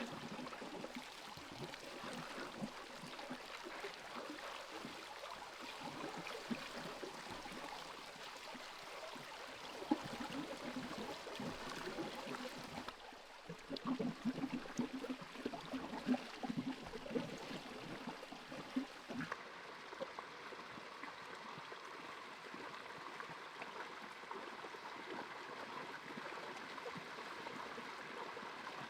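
Running water, like a small stream trickling and gurgling. Between about 13 and 19 seconds in there is a louder stretch of irregular knocks and splashes, and the sound changes abruptly at each end of that stretch.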